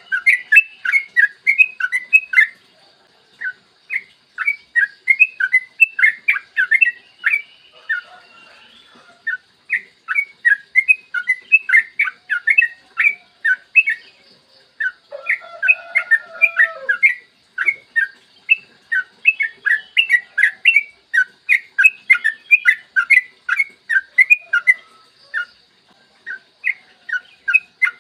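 Sooty-headed bulbul (trucukan) singing long, rapid strings of short, quick notes in repeated phrases with brief pauses between them.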